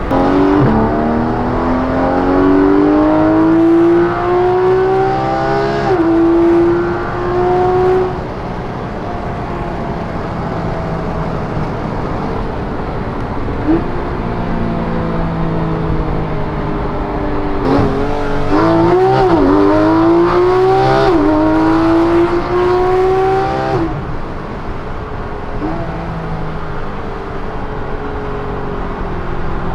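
Porsche GT3 RS 4.0-litre flat-six heard from inside the car, pulling hard up the revs with a rising pitch and a gear change about six seconds in. It then settles to a steadier run until a second hard acceleration about eighteen seconds in, with several quick gear changes and throttle blips before it eases off.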